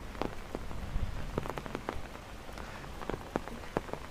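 Heavy rain falling, with big drops tapping sharply and irregularly on a nearby surface, several a second.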